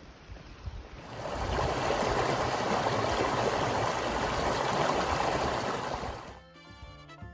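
Mountain stream flowing, a steady rush of water that fades in about a second in and fades out near the end. Music begins just before the end.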